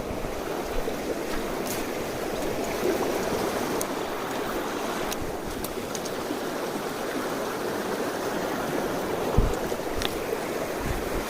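Mountain stream water rushing steadily over rocks. A brief low thump about nine seconds in.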